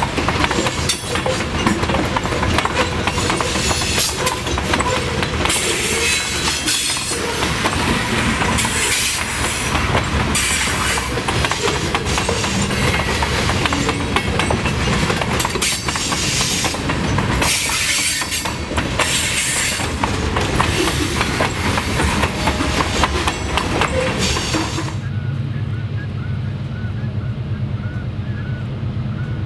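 Loaded covered hopper cars of a freight train rolling past, steel wheels clacking over the rail joints, with high-pitched flange squeal coming and going. About 25 s in it cuts off sharply to the low, steady drone of a diesel locomotive approaching in the distance.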